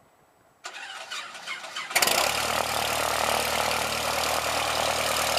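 Cessna 162 Skycatcher's four-cylinder Continental O-200 engine being started: the starter cranks it for about a second, then the engine catches about two seconds in and settles into a steady idle.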